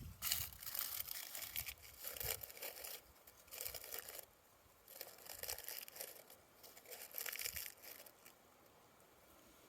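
Irregular bursts of crunching and scraping in dirt and leaf litter as a coyote dirt-hole trap set is dug and covered, dying away about eight seconds in.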